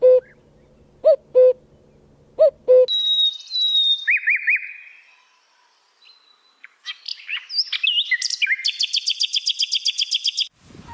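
Several kinds of wild birds calling one after another. It starts with low two-note calls repeated three times, then turns to high chirps and rising whistled notes, and ends with a fast, even trill that cuts off suddenly.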